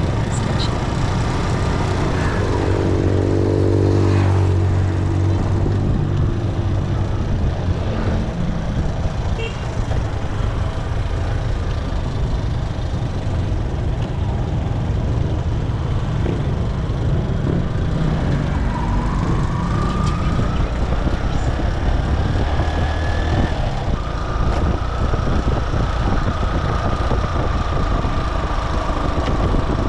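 Motorcycle engine running under way, with wind and road noise and traffic around it. A deeper engine hum swells a few seconds in. About two-thirds of the way through, a whine rises in pitch and then holds steady.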